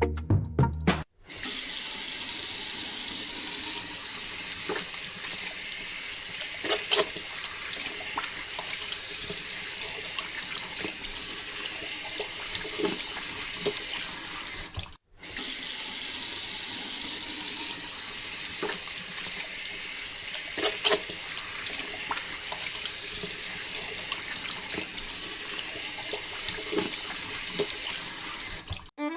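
Water pouring steadily from a small water pump's outlet pipe, with a few louder splashes.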